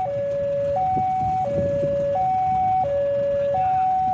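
Railway level-crossing warning alarm sounding a two-tone electronic signal, alternating a higher and a lower note about every 0.7 s, over a low traffic rumble: the crossing is warning that a train is approaching.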